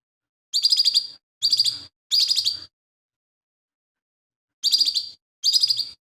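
Lesser green leafbird (cucak ijo mini) singing: short, rapid chattering bursts of high notes, three in quick succession, then after a pause of about two seconds two more.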